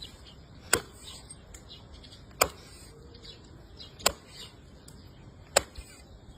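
A knife chopping into a big fish: four sharp strikes, evenly spaced about a second and a half apart.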